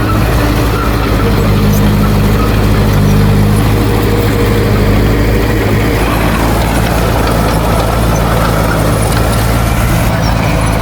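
Heavy diesel engine of an earthmoving machine running steadily at an even pitch; some of its higher tones drop away about six seconds in.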